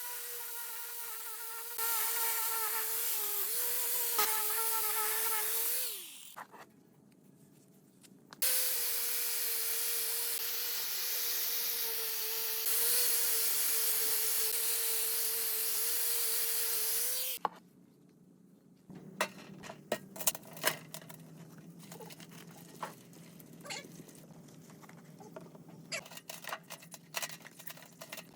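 Handheld electric power tool running in two long stretches, its steady motor whine dipping slightly at times, with a strong hiss over it. Afterwards come scattered light clicks and knocks.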